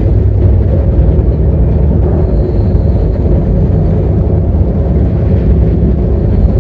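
Passenger train running along the track: a loud, steady low rumble with no breaks.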